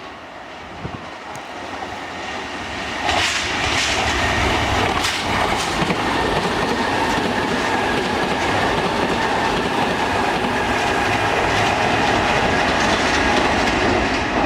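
Kintetsu Minami-Osaka Line electric train running through the station, growing louder over the first few seconds and then loud and steady, with wheels clattering over rail joints and a steady whine.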